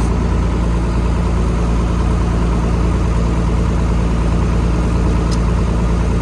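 A vehicle engine idling steadily, an even low hum that does not change, with a faint tick about five seconds in.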